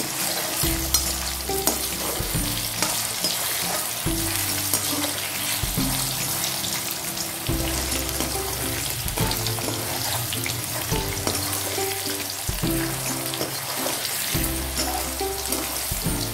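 Potato wedges sizzling as they fry in hot oil in a steel kadhai, with a metal spatula now and then stirring and clicking against the pan.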